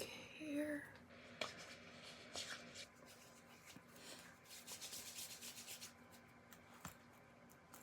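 Faint rubbing and short hissing spritzes as perfume from a spray bottle is put on, busiest from about four to six seconds in.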